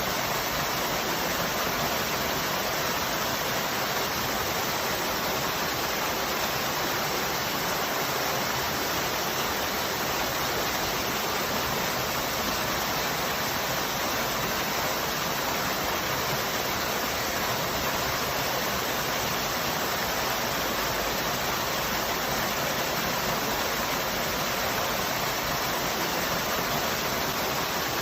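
Waterfall: the steady rush of falling water, an even hiss that holds unchanged throughout.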